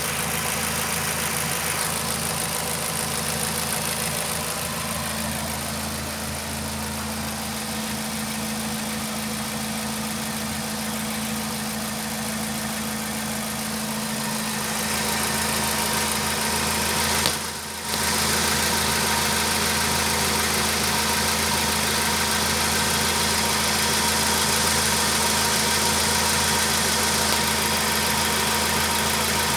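Skoda Fabia 5J's 1.6 MPI (BTS/CFNA) 16-valve four-cylinder petrol engine idling steadily, heard close up in the open engine bay. The sound cuts out briefly a little past halfway.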